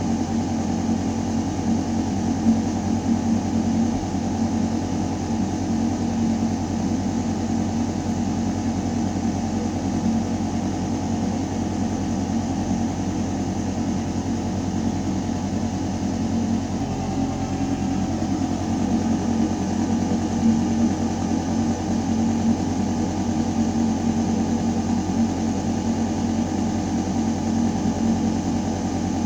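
Building ventilation system running in a shaft: a steady, deep mechanical hum of air moving through metal ducting, with several held low tones under a hiss. About seventeen seconds in, the low hum shifts slightly in tone.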